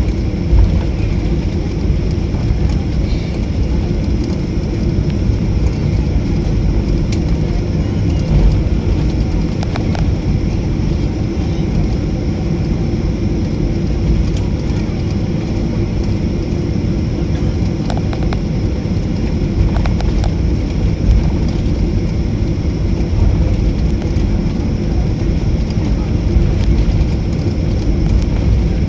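Jet airliner heard from inside the cabin during the take-off roll: a steady loud rumble of the jet engines at take-off thrust and the wheels running on the runway, with a few light knocks.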